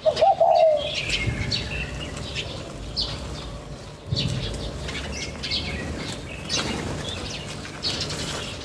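Small birds chirping in many short, high calls, with a louder, lower call that falls in pitch right at the start, among brief fluttering sounds.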